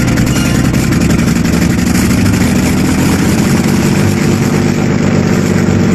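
Aircraft piston engine running steadily at a loud, even pitch.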